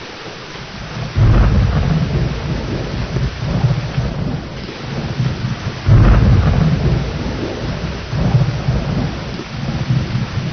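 Thunderstorm: steady rain with rolling thunder. Two low rumbles of thunder break in suddenly, about a second in and again about six seconds in, each fading slowly under the rain.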